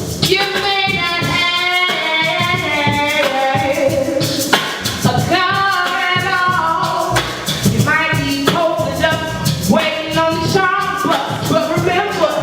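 A woman singing, with held notes that glide in pitch, in phrases a few seconds long, over music with a light percussive beat.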